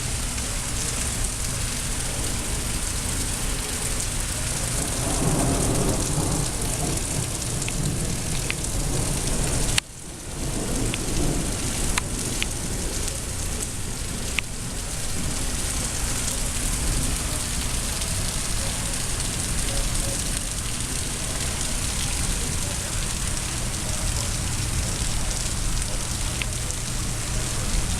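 Heavy rain pouring steadily, with a low roll of thunder rumbling about five seconds in and another just after ten seconds. The sound cuts out for a moment near ten seconds.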